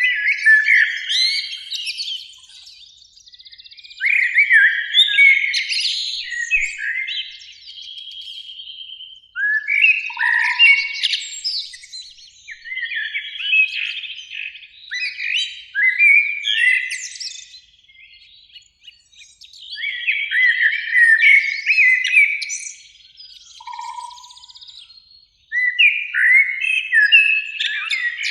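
Eurasian blackbird singing: a series of warbling, fluting phrases of a few seconds each, with short pauses between them.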